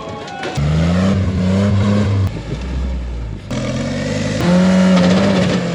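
Toyota rock crawler's engine revving hard twice under load, with a lower drone between the revs and the second rev falling away near the end, as the truck's transfer case breaks.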